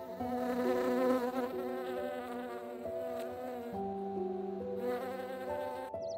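Honeybee buzzing as it works the flowers and flies off, the buzz wavering in pitch, over soft background music of held notes.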